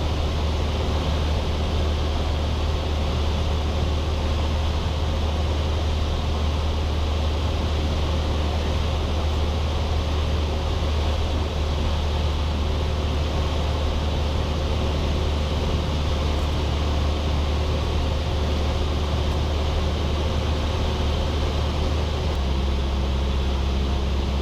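Cessna 172's engine and propeller droning steadily in cruise, heard inside the cabin through the intercom recording. The drone's pitch shifts slightly about 22 seconds in.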